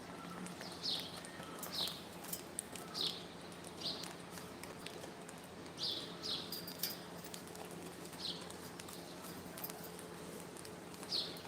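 A bird giving short, high chirps, each falling in pitch, about eight times at uneven gaps of one to two seconds, with faint clicks and a steady low hum beneath.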